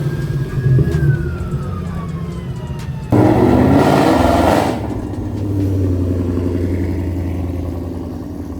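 A motor vehicle's engine running with a steady low drone. A faint tone holds and then falls in pitch, and about three seconds in a sudden loud hiss-like rush lasts a second and a half before the drone carries on.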